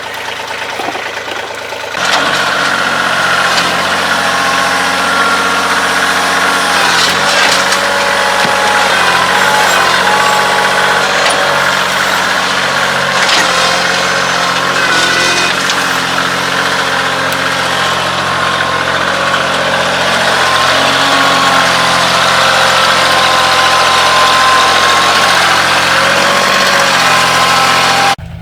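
Kioti CK2610 compact tractor's three-cylinder diesel engine running while pulling a barn, its pitch wavering up and down. It starts abruptly about two seconds in and cuts off suddenly near the end.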